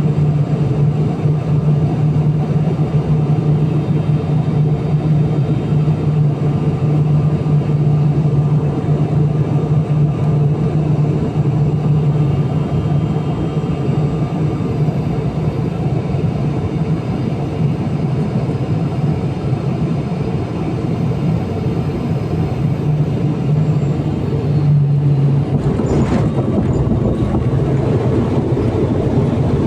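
Cabin noise of an ATR 72-600 turboprop on landing approach: the steady drone of its Pratt & Whitney PW127M engines and six-blade propellers, with a strong low hum. About 25 seconds in the drone dips briefly, then a rougher rumble starts, as the wheels touch down and roll on the runway.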